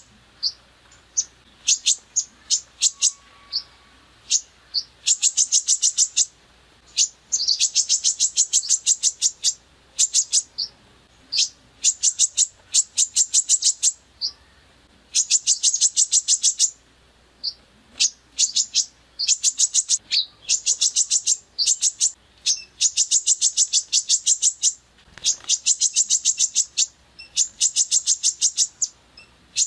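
A songbird singing harsh, rapid-fire trains of high notes in bursts of about one to two seconds, separated by short pauses and single sharp notes. This is the rough 'tembakan' style of song used on masteran recordings.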